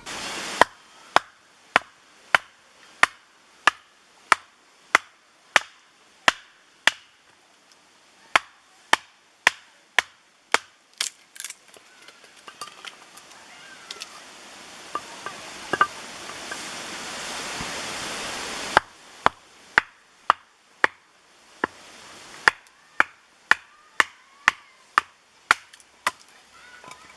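Axe chopping wood: a long series of sharp, even strikes, about one and a half a second. In the middle the strikes thin out and stop for a few seconds while a steady hiss rises, then they start again.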